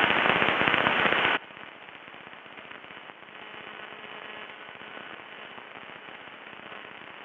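Aircraft radio crackling with loud static, the fault of a radio that crackled badly all flight, then cutting off abruptly about a second and a half in, leaving a faint steady hiss on the intercom feed.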